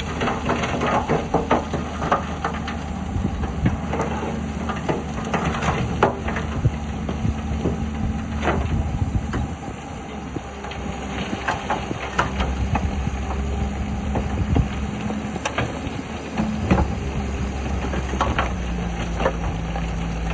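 Heavy diesel earthmoving machinery running steadily, with frequent knocks and clanks of metal and rock. The engine note dips briefly about halfway, then picks up again.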